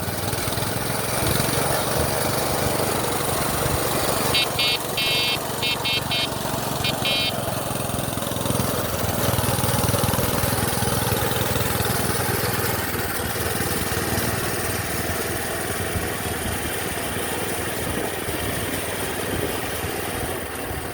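Minibike engine running as it rides along, over a steady rush of wind noise; the engine's low hum drops away after about thirteen seconds. A quick run of short high beeps sounds between about four and seven seconds in.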